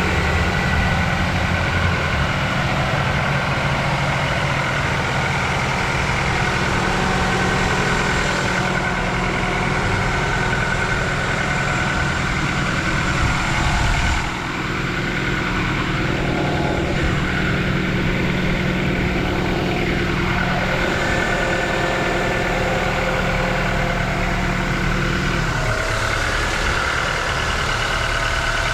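A 1994 Honda Accord's 2.2-litre VTEC four-cylinder engine idles steadily after a cold start while it warms up. Near the end its idle note drops slightly.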